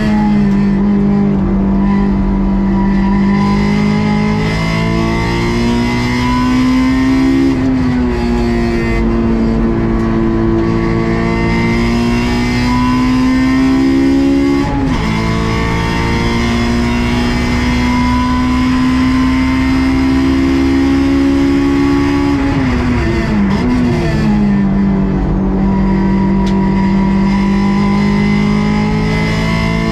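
Stock Honda S2000 AP2's 2.2-litre four-cylinder engine running hard on track, its pitch climbing slowly through long pulls. Short drops in pitch with quick throttle blips come about 8, 15 and 23 seconds in, typical of braking and downshifting for corners.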